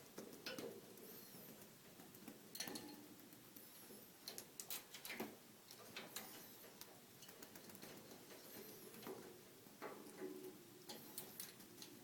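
Faint, irregular light taps and rustles of a cat batting at a cat teaser toy, with its paws and the toy ticking and brushing against each other and the floor.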